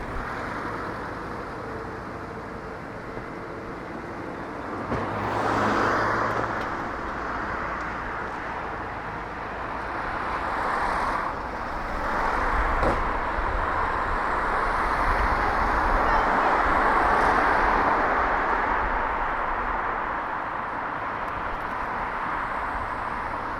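Road traffic on a city street, with cars going by one after another. One passes about 6 seconds in and another about 11 seconds in, then a louder, longer stretch of passing traffic with low rumble follows.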